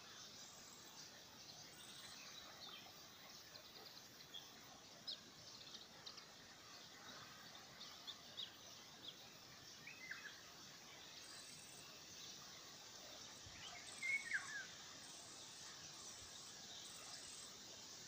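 Faint outdoor ambience: a steady soft hiss with scattered short bird chirps. The loudest, a few quick falling chirps, come about fourteen seconds in.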